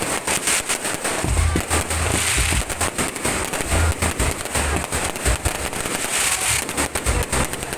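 Aerial fireworks going off in rapid succession: many sharp bangs with deep booms and continuous crackling.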